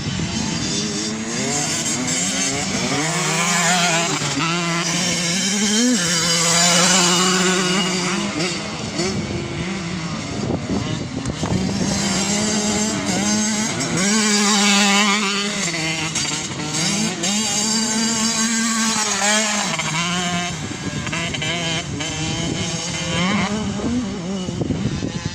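Dirt bike engine revving as the bike is ridden, its pitch climbing under throttle and dropping back again and again through the gears, rising and fading in loudness as it passes.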